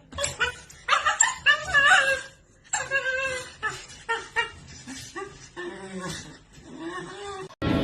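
A dog whining and yipping in a run of short cries that rise and fall in pitch, cut off abruptly near the end.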